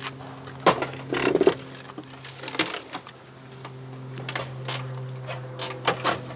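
A handful of sharp knocks and clatters over a steady low hum.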